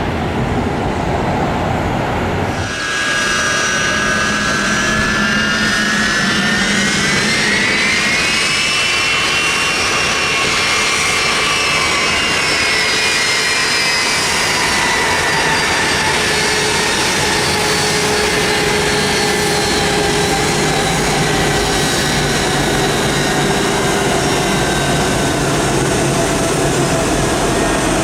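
Jet airliner engines spooling up: from about two and a half seconds in, a loud whine rises steeply in pitch for several seconds, then slowly sinks while the engine noise holds steady.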